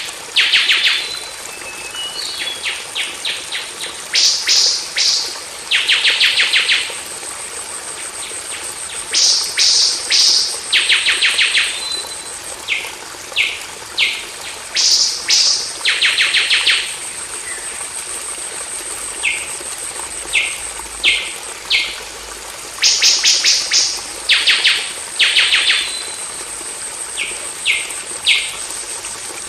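Golden oriole calling: repeated harsh, buzzy bursts of about half a second to a second, coming in clusters with short pauses between, over a steady high-pitched whine.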